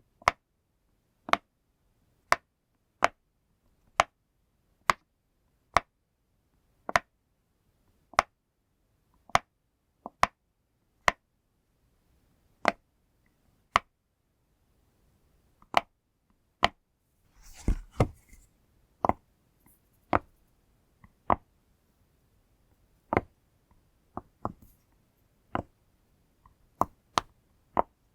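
Silicone pop-it fidget toy bubbles being pressed one at a time, each giving a sharp pop, about one a second and less evenly spaced in the second half. About 17 seconds in, a brief low thump and rustle from handling the toy.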